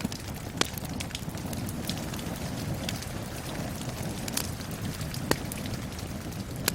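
Steady rain with a crackling wood fire: a continuous hiss of rain, with sharp pops and snaps from the fire scattered irregularly through it.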